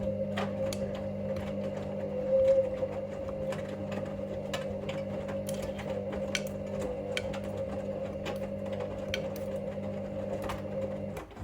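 Hoover Link washing machine's motor turning the drum during the main wash: a steady motor hum and whine with scattered light clicks, cutting off near the end as the drum stops for a pause.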